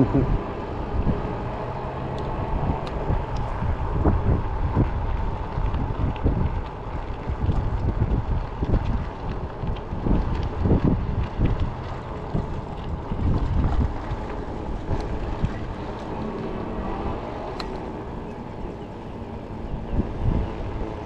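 Wind buffeting the microphone in uneven gusts, with low rumble from riding a folding fat-tire e-bike.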